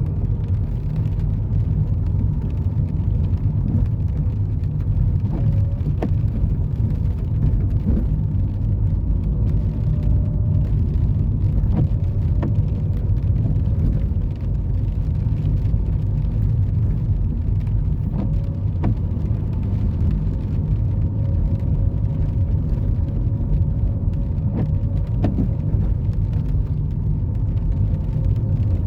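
Steady low rumble of a car driving on a road, with a few faint clicks now and then.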